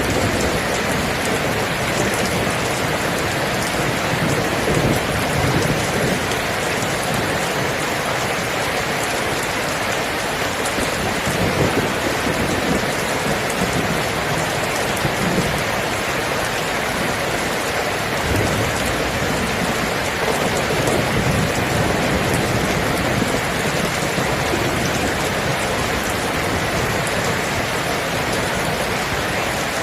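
Steady heavy rain falling on a surface, with low rumbles of thunder swelling up now and then.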